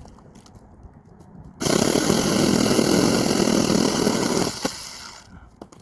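Small electric chainsaw cutting through a tree branch in one steady cut: it starts about one and a half seconds in, runs for about three seconds under load, then winds down as the cut finishes.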